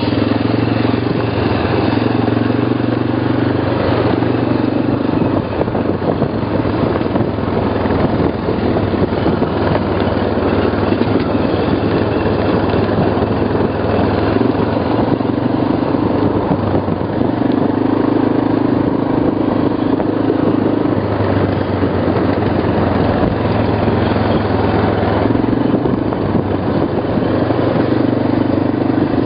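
ATV (quad bike) engine running steadily with a low drone that strengthens and eases every few seconds.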